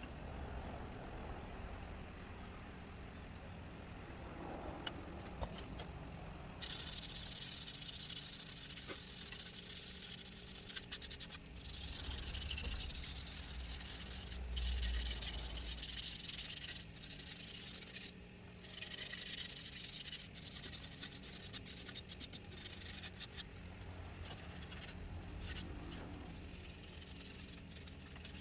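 Wood lathe motor running with a steady hum. From about six seconds in, a hissing rub starts as something is pressed against the spinning walnut; it breaks off briefly several times.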